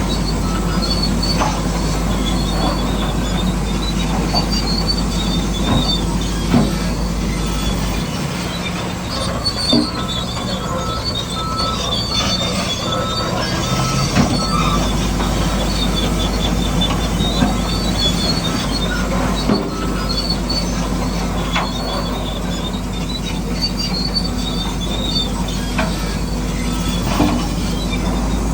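Bulldozer crawler tracks squealing and clanking over a steady low machine hum, with high squeals that come and go and scattered knocks.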